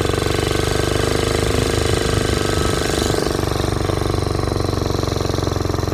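Small Briggs & Stratton engine on a motorized bicycle running steadily under load as the bike rides off, with a fast, even engine beat.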